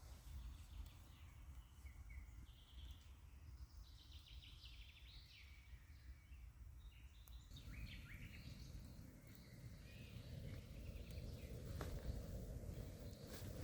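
Faint forest ambience: small birds calling with short chirps and trills. A low steady hiss under them grows louder about halfway through, with a few light clicks.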